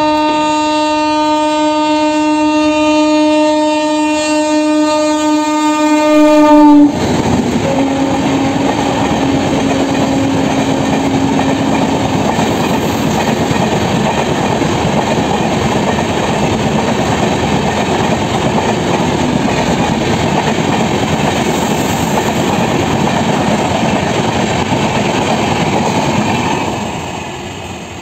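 Tejas Rajdhani Express passing at full speed. The locomotive's horn sounds one long, steady note, loudest just before the engine passes about seven seconds in, then drops in pitch and carries on fainter for a few seconds. Then comes the steady rush of the coaches running past at speed, fading near the end as the last coach goes by.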